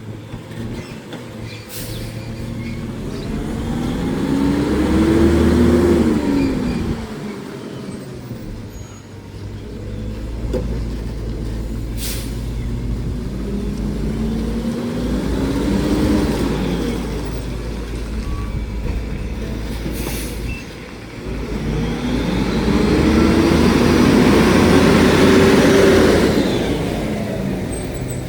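Garbage truck engine revving up and settling back three times as it drives the packing or lifting hydraulics, with a few short air hisses between.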